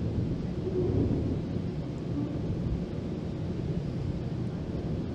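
Steady low rumble of a GO Transit commuter train running along the track, heard from inside the passenger coach.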